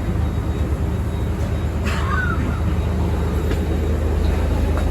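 Steady low droning hum in a crowded boarding bridge, with a brief faint voice about two seconds in.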